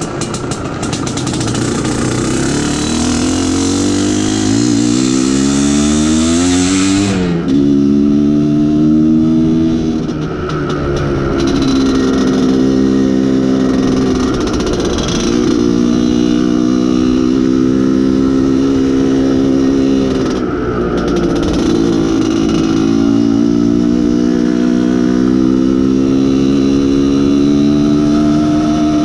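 IZh Planeta Sport's single-cylinder two-stroke engine under way, its pitch rising for about seven seconds, dropping sharply at a gear change, then holding fairly steady with a few brief dips off the throttle.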